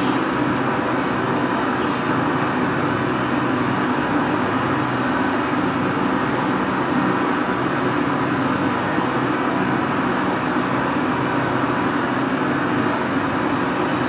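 Steady hiss of a gas brazing torch flame joining a refrigerator's copper suction pipe, with a low hum under it.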